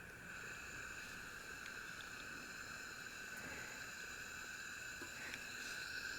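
Natural gas burner flame hissing faintly and steadily as it heats the hot air engine, which is not yet running.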